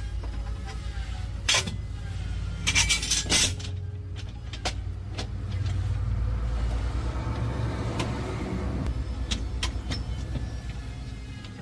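Truck engine running steadily at idle, with a few sharp knocks and short noisy bursts over it, the loudest about three seconds in.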